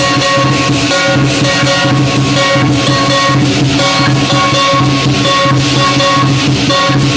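Lion dance percussion, with a big drum beating and cymbals and gong ringing over it in a steady, driving rhythm.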